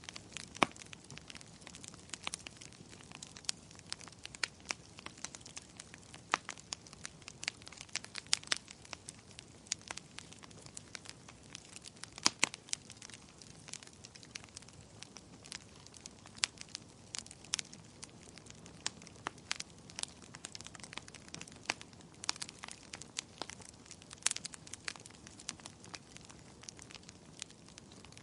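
Fire in a fireplace crackling: irregular sharp pops and snaps, several a second at times, over a soft steady hiss.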